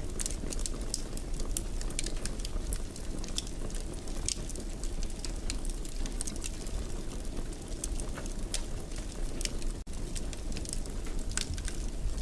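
Wood fire crackling in a fireplace: frequent sharp pops and snaps over a steady low rumble of burning logs. The sound drops out for an instant about ten seconds in.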